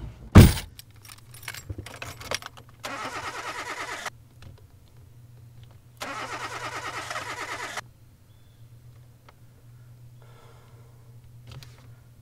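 A sharp knock, then a car's starter cranking the engine twice, each time for under two seconds, and the engine not catching.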